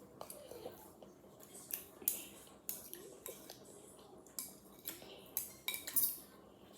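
A spoon clinking and scraping against a bowl in short, irregular taps while someone eats cereal from it.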